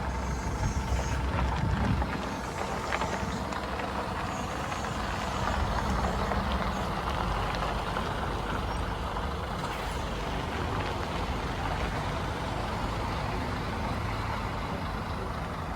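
Scania double-decker bus's diesel engine running steadily with a low rumble.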